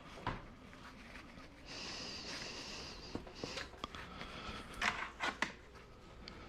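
Drill-driven Stripmaster wire stripper running briefly with a steady whine, then several sharp clicks and knocks from the wire and tool being handled, the loudest about five seconds in.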